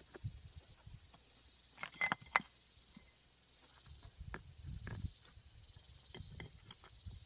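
Scattered knocks and clicks, two sharp ones close together about two seconds in, with low scuffing and rustling between them.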